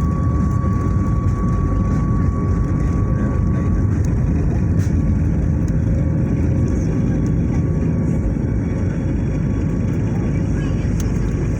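Cabin noise aboard a flydubai Boeing 737 during takeoff: a steady, loud, low rumble of the jet engines and airflow, with a faint high whine that fades out about four seconds in.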